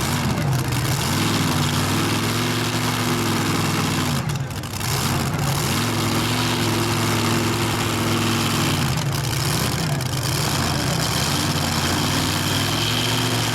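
Pulling tractor's engine revving up, holding high revs for a few seconds and dropping back, three times over.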